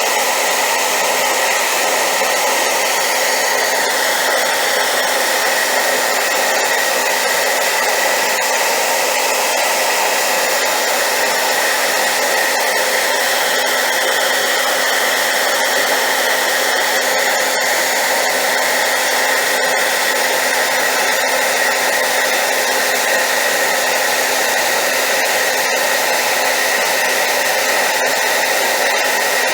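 Hair dryer running continuously: a loud, steady, even rush of air with a faint constant whine, used as white noise.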